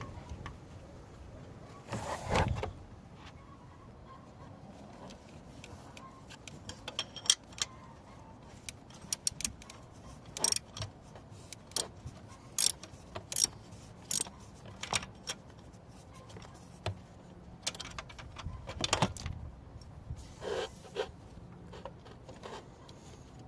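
Metal hand tools clicking and clinking while bolts on the starter motor are tightened, with a run of sharp clicks less than a second apart and a couple of short scraping noises.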